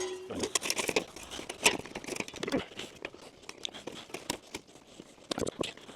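A piece of sheet metal being handled and fastened down on a roof: irregular clicks, scrapes and crinkles.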